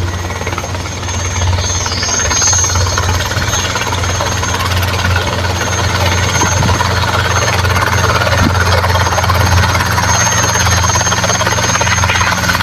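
Helicopter running close by: rapid, even chopping of the main rotor over a steady high-pitched turbine whine.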